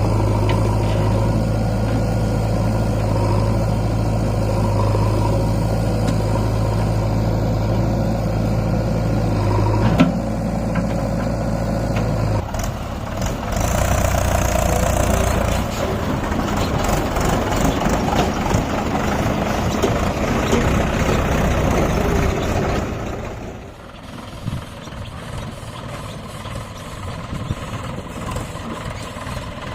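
Tractor diesel engine running, a steady low hum with a sharp knock about ten seconds in. After that the sound turns rougher and more uneven, and it drops noticeably quieter a little past two-thirds of the way through.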